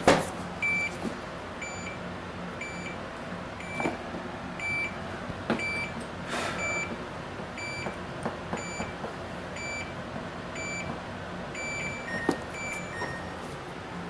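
Samsung French door refrigerator's control panel beeping over and over, about twice a second, while it is put into forced-defrost test mode to run the defrost heater. Near the end the beep changes to a slightly lower tone. A few knocks and clicks from handling the fridge come in between, the loudest right at the start.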